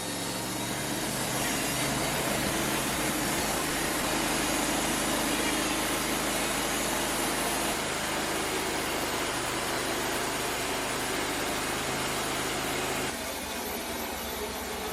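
Portable sawmill's engine running steadily, a little louder from about a second in; near the end the low hum drops away and the sound changes.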